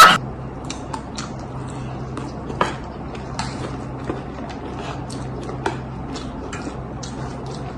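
Scattered light clicks and taps of spoons on plates as chatpate is eaten, over a steady low hum, with a sharper clink about two and a half seconds in and again near six seconds.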